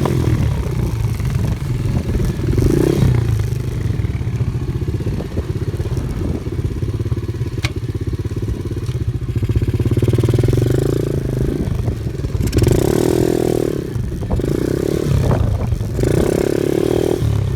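Off-road vehicle engine running under load on a rough trail, its note swelling and easing several times, with clattering and knocks over it.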